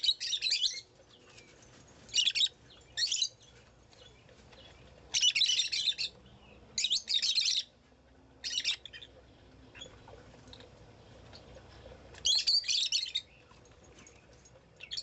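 A bird chirping outdoors in short bursts of rapid high notes, about eight bursts each lasting under a second, with quiet gaps of one to four seconds between them.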